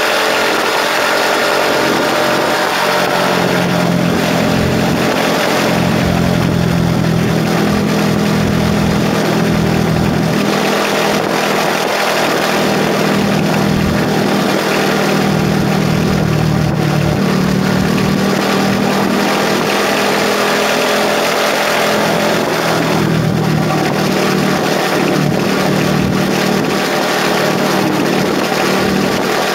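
KTM RC 390's single-cylinder engine running at a fairly steady pitch while the motorcycle is ridden, heard together with a constant hiss of wind rushing past.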